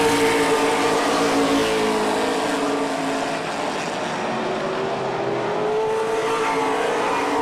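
Stock car engines running at racing speed around an oval track, their pitch sliding down as cars go by and rising again a few seconds later.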